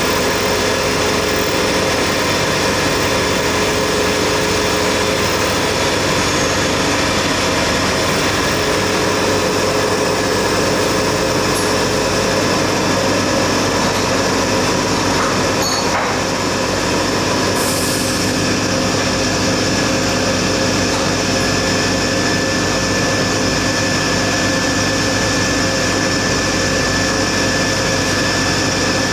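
Steady running noise of factory machinery, a constant whir with several steady tones in it. A short high hiss comes about eighteen seconds in.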